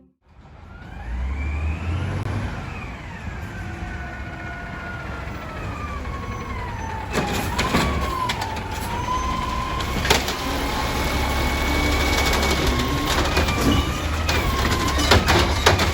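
Garbage truck's diesel engine rumbling, with a whine that slides slowly up and down in pitch and a few sharp knocks.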